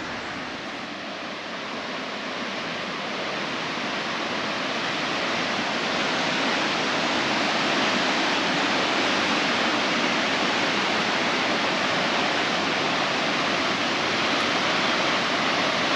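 Roar of a large waterfall, a steady rushing of water that grows louder over the first several seconds and then holds steady.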